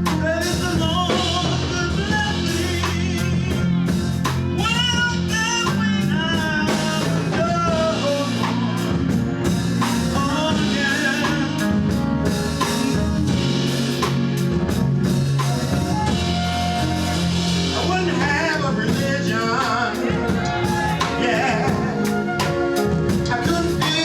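Live gospel band playing, with a drum kit keeping a steady beat under a bass line and a singing voice.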